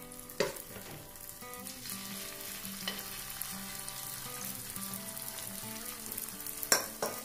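Grated cassava batter sizzling as it shallow-fries in a little oil and margarine in a wok, with a metal spoon scraping and tapping against the pan as the batter is spread. A few sharp knocks, the loudest near the end.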